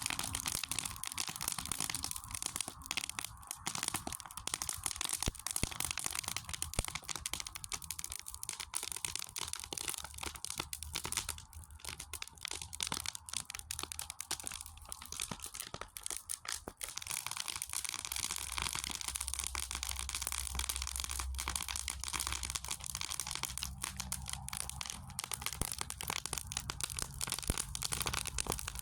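Wood fire in a fire pit crackling, with dense, irregular snaps and pops. A low rumble joins in about two-thirds of the way through.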